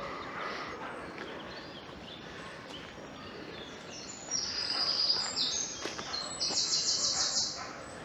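A songbird singing: a burst of high, clear notes starts about four seconds in and ends in a fast trill.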